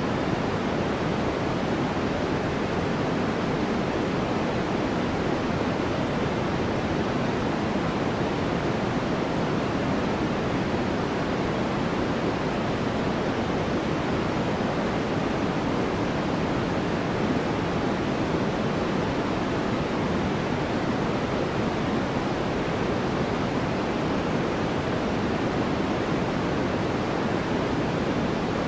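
Continuous sleep noise: an even, unbroken hiss that never changes, deeper than a bright white hiss, with most of its weight low down.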